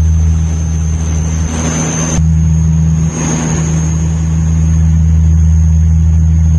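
An engine running with a steady low drone and a thin high whine above it.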